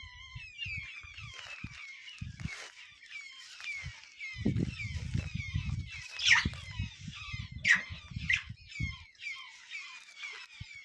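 A group of birds chirping and twittering continuously, with a few louder, sharp calls about six, seven and a half and eight seconds in. Bouts of low muffled noise run underneath from about four and a half to nine seconds in.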